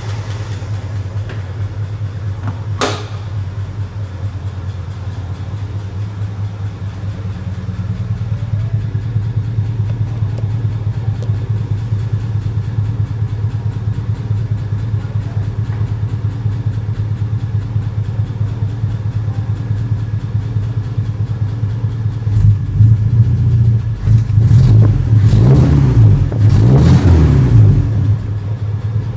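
Chevrolet Opala's four-cylinder 151 engine idling with a steady, low exhaust rumble, then revved several times near the end, each rev rising and falling, before it settles back to idle. A single sharp click sounds about three seconds in.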